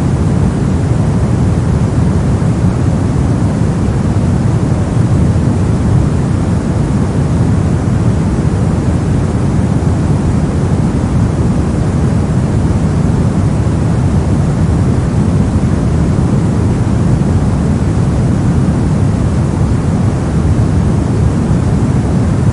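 Synthetic brown noise: a steady, deep, rumbling hiss with its energy heavy in the low end and falling away toward the highs, unchanging throughout.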